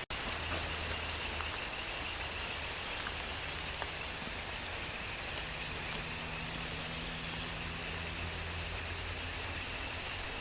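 Steady rain falling, an even continuous hiss with no break except a momentary dropout right at the start.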